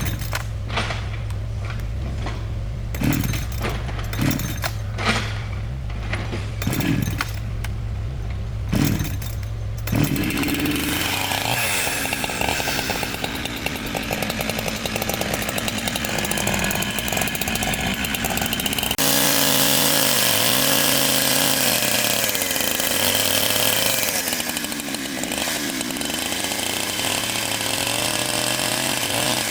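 Power woodworking machinery at work. First a low steady motor hum with several sharp knocks, then, about a third of the way in, a loud harsh chainsaw-like cutting noise that continues to the end.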